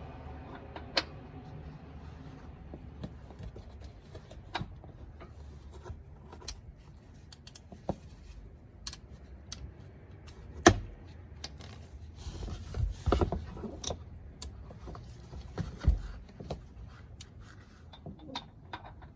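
Hand tools and parts being handled: scattered metallic clicks and knocks, with a sharp knock about eleven seconds in, a short clatter around thirteen seconds and another knock near sixteen seconds.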